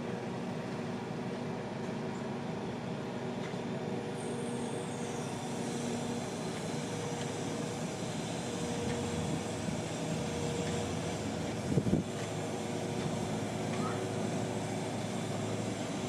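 An engine running steadily, with a faint high whine that falls slowly in pitch about four seconds in and one sharp knock about twelve seconds in.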